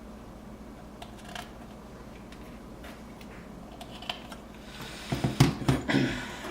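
Light scattered clicks of small hard objects being handled on a workbench, then a short burst of louder knocks and rattling about five seconds in.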